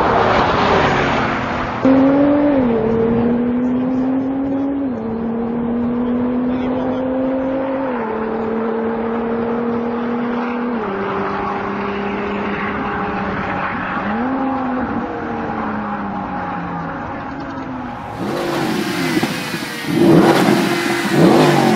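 A supercar engine accelerating hard down a drag strip, its pitch climbing steadily in each gear and dropping sharply at each of five upshifts, about every two to three seconds. It opens with a car rushing past, and near the end music comes in.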